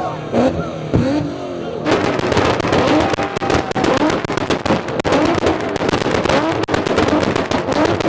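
Car engine revving up and down, with a rapid string of exhaust pops and cracks starting about two seconds in.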